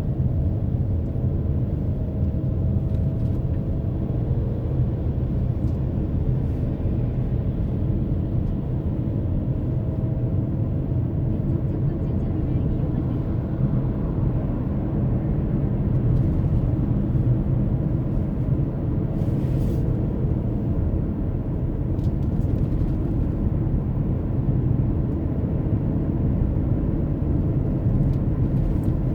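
Steady low rumble of a car being driven: engine and tyre noise heard from inside the cabin.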